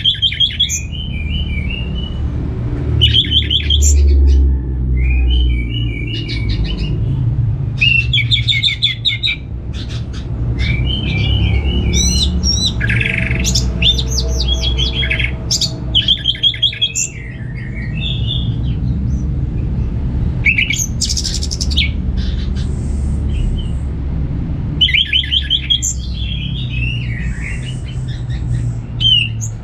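Orange-headed thrush singing a run of varied, warbling phrases, each a second or two long with short pauses between, over a steady low rumble.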